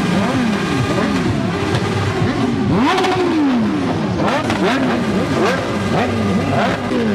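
Several sport motorcycle engines revving in quick blips, their pitch shooting up and dropping back over and over, overlapping one another, with a few sharp cracks among them.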